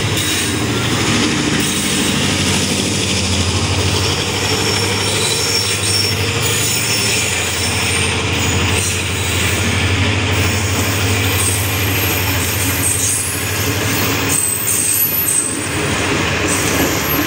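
Train running on the track: a steady rumble of wheels on rail, with thin high-pitched wheel squeals coming and going through the middle.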